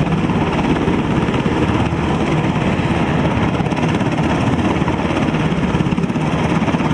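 UH-60 Black Hawk helicopter in flight, its rotor and turbine running loud and steady with a fast, even beat.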